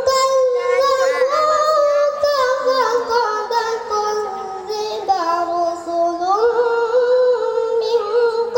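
A qari reciting the Quran in melodic tilawah style, one high voice drawing out long ornamented notes. The pitch holds at first, sinks slowly through the middle and climbs back up about six seconds in.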